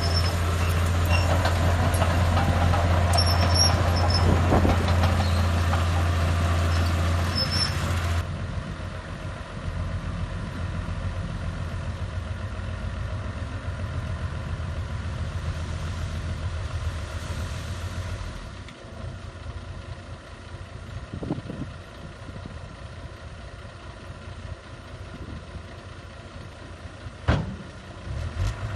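Heavy diesel earthmoving machinery running, loud for about the first eight seconds, then cutting to a quieter, steadier engine sound, with a single sharp knock near the end.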